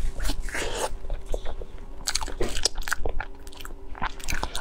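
Biting into and chewing a soft custard-flavoured cake roll: a stream of short, irregular mouth clicks and smacks.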